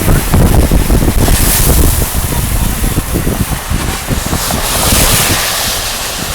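Wind buffeting the microphone from a moving car, an uneven fluttering rumble over road noise, with a hiss that swells up twice.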